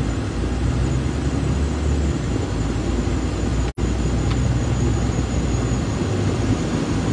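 Car engine idling with a steady low rumble and a rush of air, with a momentary dropout a little over halfway through.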